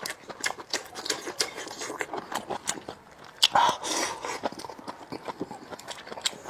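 Close-up chewing and lip-smacking: an irregular stream of wet mouth clicks, with a louder burst about three and a half seconds in.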